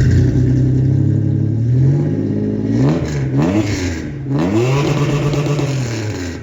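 Toyota 3.4-litre V6 engine running loudly through its freshly repaired exhaust just after start-up and being revved several times: a quick pair of blips about three seconds in, then a longer rev that is held and let back down.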